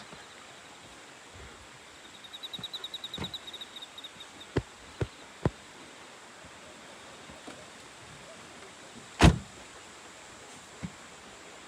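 Steady rush of a river, with a rapid high-pitched trill lasting about two seconds and several sharp clicks, the loudest about two-thirds of the way through.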